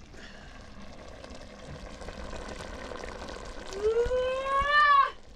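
Water being poured into a container, with a tone that rises in pitch as the vessel fills. It grows much louder and rises faster in the last second or so, then stops abruptly just after five seconds in.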